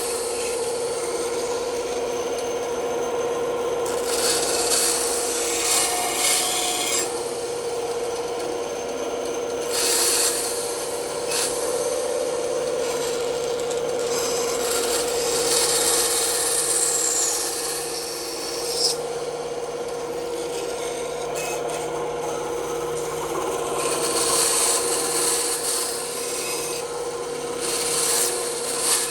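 Bandsaw running with a steady hum, its blade cutting wood in rasping stretches that come and go every few seconds as the workpiece is fed and backed off.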